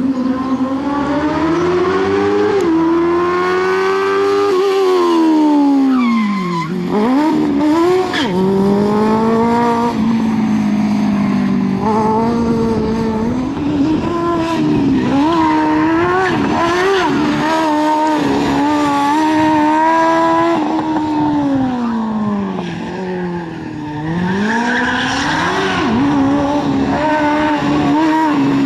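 Smart Fortwo's Kawasaki Ninja motorcycle engine revving hard and high on a rally stage, its pitch climbing through the gears and dropping sharply twice, with quick throttle blips in between. Tyres squeal at times.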